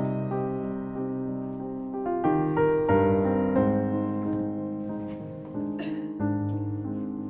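Soft background piano music, slow notes and chords, with a few faint clicks and rustles near the end.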